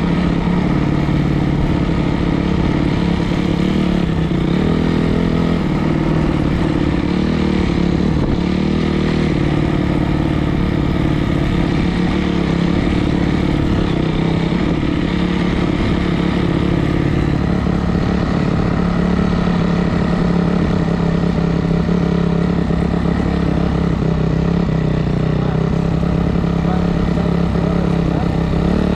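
Four-stroke single-cylinder dirt bike engine running steadily near idle, its pitch shifting a little now and then.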